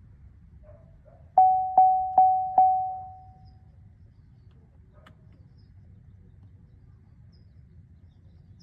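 Cadillac XT5's electronic warning chime sounding four quick tones at one pitch, about 0.4 s apart, each ringing out, before the engine is started.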